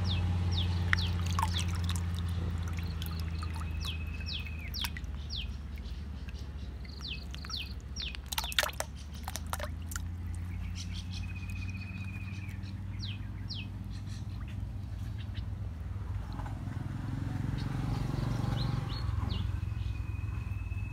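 Birds chirping in quick series of short downward notes, with a short buzzy trill now and then, over a steady low hum. A few sharp clicks come about eight and a half seconds in.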